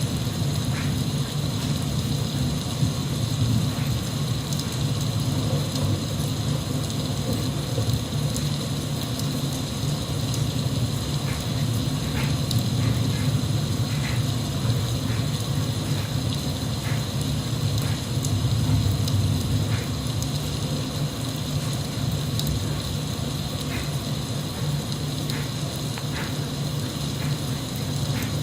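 Steady rain falling: an even rushing with a deep low rumble under it and a few sharper drops scattered through.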